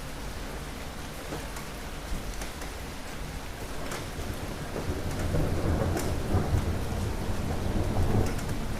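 Steady rain falling with scattered drips, while a low thunder rumble builds about halfway through and grows louder toward the end.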